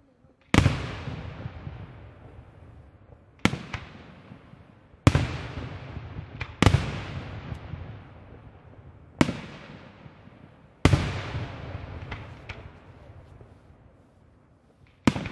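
Aerial firework shells bursting one after another: seven sharp bangs spaced about one and a half to four seconds apart, each followed by a long echoing tail that dies away, with a few lighter cracks in between.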